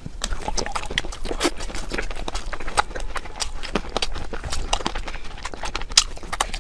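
Close-miked eating sounds: quick, irregular wet clicks and smacks of a mouth chewing, several a second.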